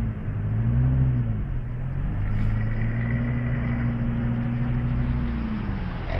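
A vehicle engine running, its note rising and dipping about a second in, holding steady, then falling near the end, over a steady hiss.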